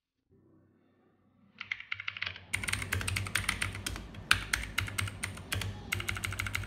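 Typing on a Motospeed K87S mechanical keyboard with Outemu Blue switches, which are tactile and clicky. Fast, dense key clicks start about a second and a half in and run on with only a brief lull.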